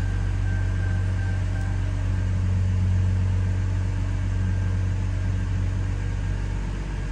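A 2006 Chevy Trailblazer's 4.2-litre straight-six idling steadily, heard from inside the cab. It is running to circulate fresh oil just after an oil change, with six of its seven quarts in.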